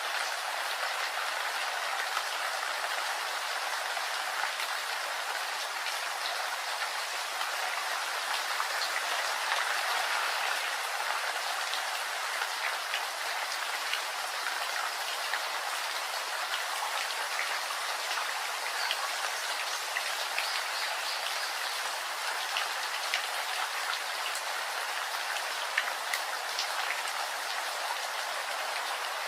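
Steady rain: a dense, even hiss with scattered sharp ticks of single drops.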